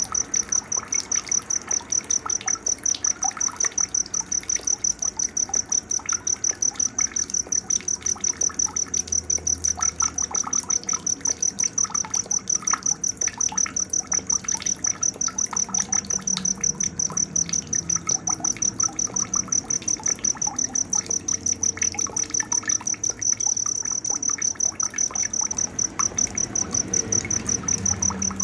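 A cricket chirping loud and high in a steady rhythm, about three chirps a second, with scattered short bird calls underneath.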